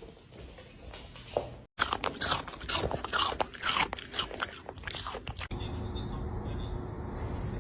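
Crunchy chewing and biting, a quick run of crackly bites lasting about four seconds, which then cuts off abruptly into a steady low hum.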